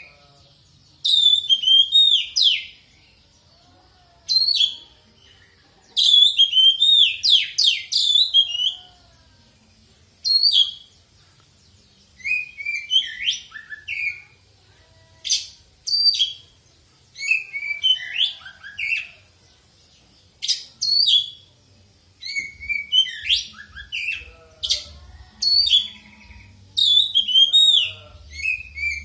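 Oriental magpie-robin (kacer poci) singing: phrases of loud, fast-gliding whistles and rapid chattering notes come in bursts of one to three seconds, with short pauses between. This is a lure song, played to get a kept kacer to start singing.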